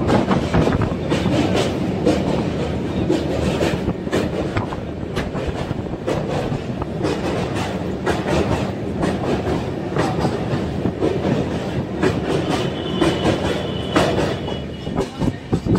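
Banka Intercity passenger train running over a steel truss girder bridge, heard from inside a carriage at an open window: a steady rumble of wheels on rail with the clickety-clack of rail joints. Near the end there is a faint high wheel squeal.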